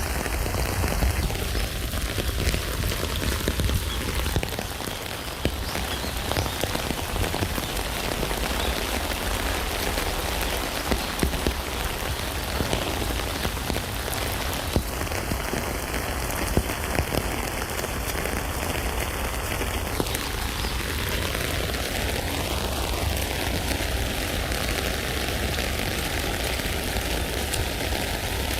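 Steady rain falling on a tent, with many individual drops ticking over a continuous hiss and a low rumble underneath.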